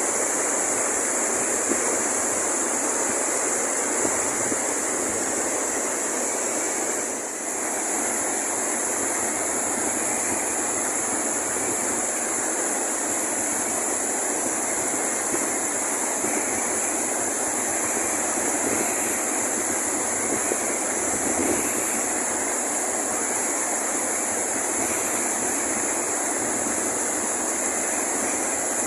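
Water of Bopath Ella waterfall rushing and crashing in a steady, unbroken roar, with a steady high-pitched hiss above it; the sound dips briefly about seven seconds in.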